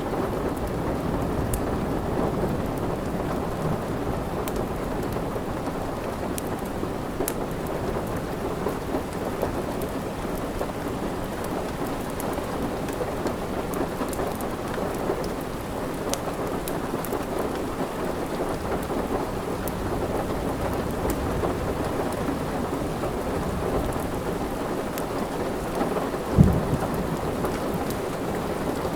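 Steady heavy rain with a low rumble of thunder, and faint scattered crackles of a wood fire. A single short low thump stands out about 26 seconds in.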